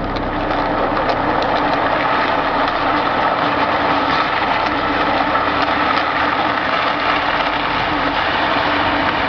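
A motor vehicle's engine running steadily under a constant rushing noise, starting about when the group sets off.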